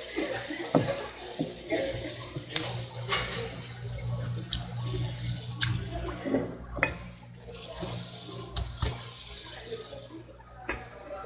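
Water running from a tap into a sink, with sharp knocks and clatter scattered through it over a steady low hum.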